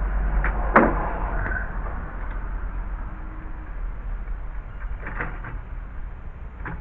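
A few sharp knocks and clicks of wood and tools being handled, the loudest just under a second in, over a steady low hum.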